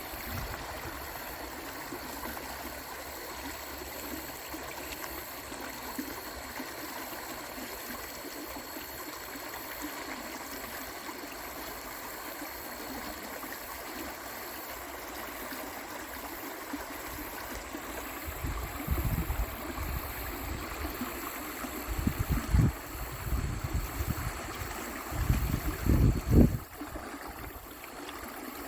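Stream water rushing steadily over rocks. From about 18 seconds in, several loud low rumbles come and go, the loudest near the end.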